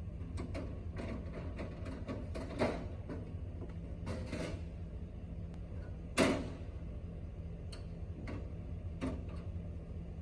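Scattered metallic clicks and knocks of hands working at a cold machine's engine compartment while checking the oil, with a sharp clank about six seconds in, like a door or panel being shut. A steady low hum runs underneath.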